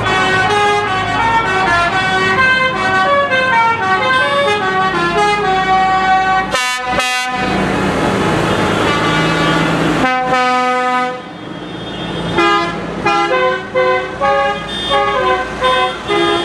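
A musical vehicle horn playing a quick tune of stepped notes over the hum of running tractor engines. The tune breaks off briefly about six and a half seconds in, and again around ten seconds.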